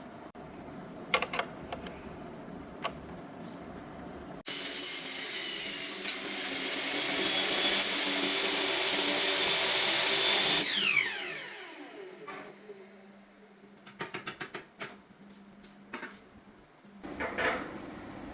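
A power tool's motor starts abruptly, runs loudly for about six seconds, then winds down with a falling whine. Scattered clicks and knocks follow near the end.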